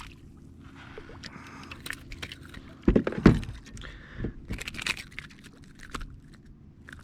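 A landed ladyfish thrashing on a kayak, with rattling and clicking as the lure and tackle knock about, and two loud knocks about three seconds in.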